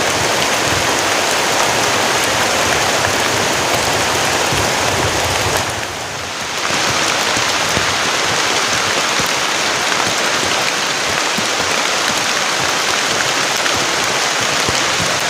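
Heavy rain pouring down steadily, dipping briefly in loudness about six seconds in.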